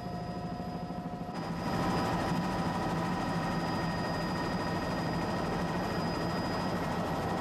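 Steady mechanical engine drone with a constant hum, stepping up in level about a second and a half in.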